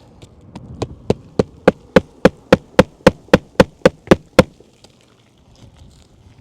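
Hammer blows on a roofing nail in an asphalt shingle: about fourteen quick, even strikes, growing louder, then stopping.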